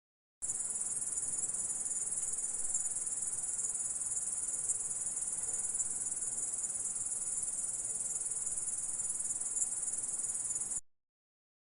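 Grasshopper stridulating: a continuous high-pitched buzzing trill that starts about half a second in and cuts off suddenly near the end.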